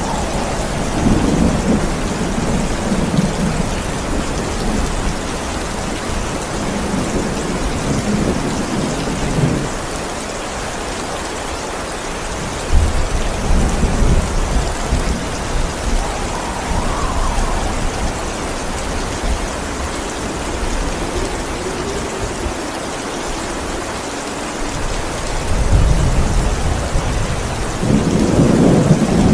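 Steady rain with thunder rumbling repeatedly in the distance. A sudden, louder thunder rumble breaks in about halfway through, and more rolls of thunder build near the end.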